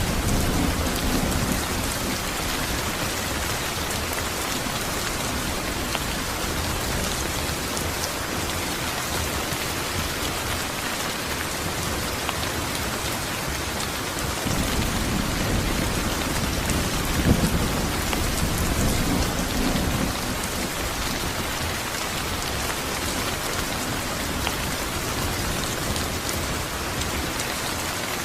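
Steady rain falling, with low rolls of thunder near the start and again for several seconds midway.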